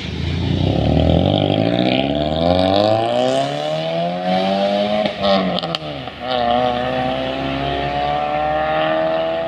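Toyota Yaris engine with an NDK full-system racing exhaust and DK-01 V2 muffler, under hard acceleration. Its pitch climbs steadily, falls back sharply about halfway through, then climbs again.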